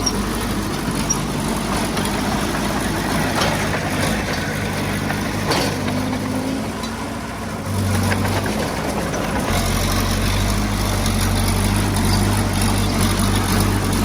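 Diesel engine of heavy earthmoving equipment running steadily under work. It eases a little just past the middle, then runs louder with a deeper note over the last few seconds.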